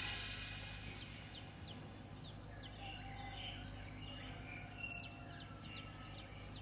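Birds chirping faintly, many short high chirps and quick falling calls, over a steady low background hum, as music fades out in the first second.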